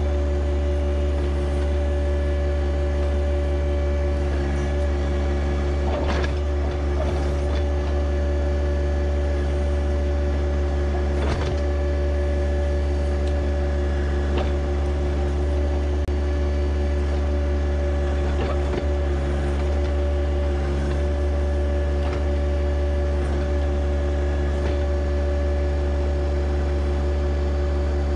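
John Deere 1025R compact tractor's three-cylinder diesel engine running at a steady speed, a constant drone with a few sharp knocks along the way.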